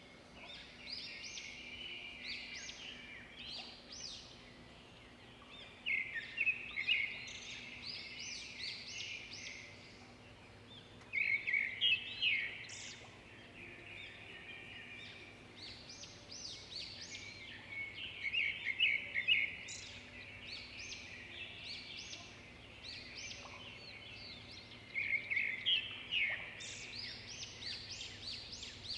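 Small birds chirping and twittering, in loud bursts of quick high chirps that come back about every six or seven seconds, with softer chirps in between.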